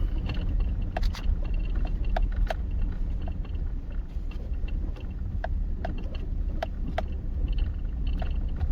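Vehicle driving slowly over a rough dirt track: a steady low engine and tyre rumble, with scattered sharp knocks and rattles as it bumps along.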